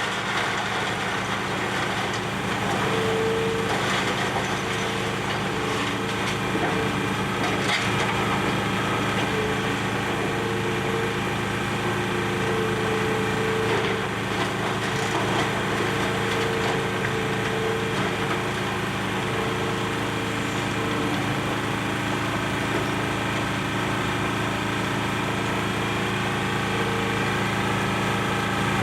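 Demolition excavator's diesel engine running steadily, with a whine that comes and goes as the hydraulics work, while building debris cracks and splinters under the machine.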